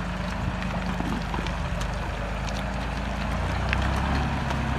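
Deutz-Fahr 4055 tractor's diesel engine running steadily, growing louder about three seconds in, with scattered sharp clicks and cracks over it.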